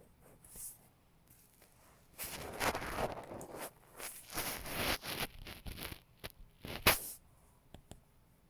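Scraping and rustling of a plastic toy railroad crossing being handled, in several bursts, ending in a sharp click about seven seconds in and two light clicks after it.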